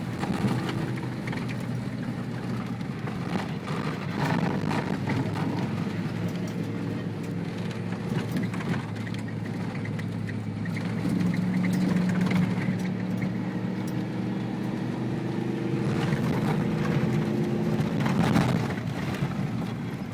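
Ford Bronco prerunner driving on a rough dirt trail, heard from inside the cab: a steady engine drone over road noise, with scattered knocks and rattles from the bumps. The engine pitch rises a little about halfway through and holds.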